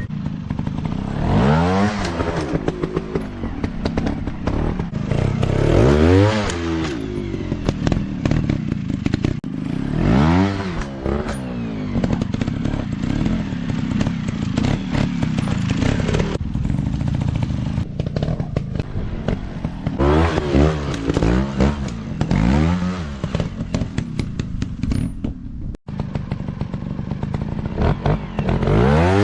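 Dirt bike engines revving up and dropping back, over and over, as the bikes are ridden hard over rough off-road ground, with clattering and knocking throughout.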